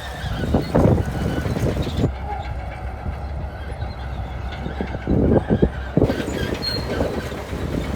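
Shantui bulldozer's diesel engine running with a steady low rumble, and the clanking of its steel tracks coming in louder bursts about a second in and again around five seconds.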